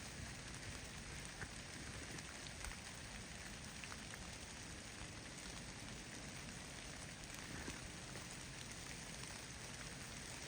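Falling snow in a storm, a steady faint patter with scattered small ticks.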